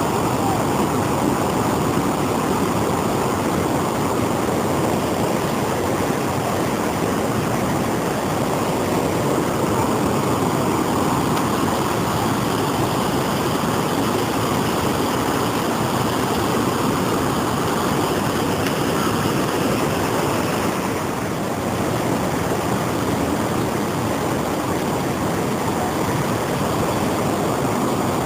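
Large waterfall rushing steadily, with a constant noise of falling water that dips slightly only once, about three quarters of the way through.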